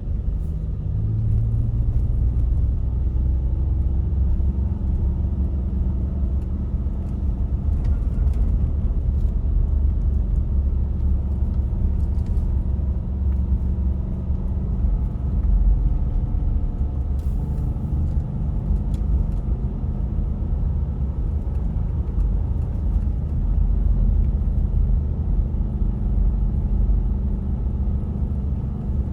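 Engine of a manual-transmission truck running under way, with a steady low rumble; its pitch shifts up and down several times.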